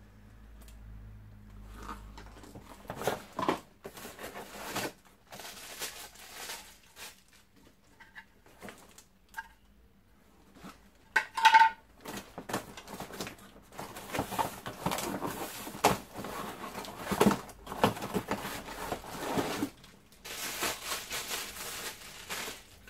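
Packaging and plastic vacuum parts being handled during unpacking: bursts of rustling a second or two long with light knocks and clicks. A short squeak about halfway through is the loudest moment.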